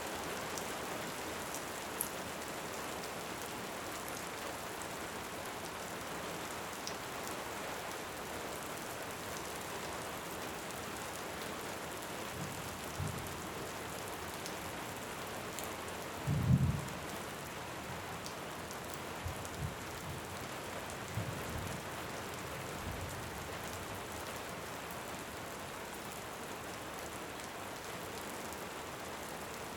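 Steady heavy rain, with a few faint crackles from a wood fire. Several short, low rumbles of distant thunder come between about twelve and twenty-three seconds in; the loudest is around sixteen seconds.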